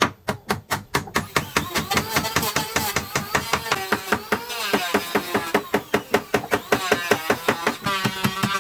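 Hammer striking wood in rapid, even blows, about five a second.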